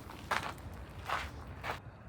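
Footsteps of a person walking, three steps about two a second, stopping near the end.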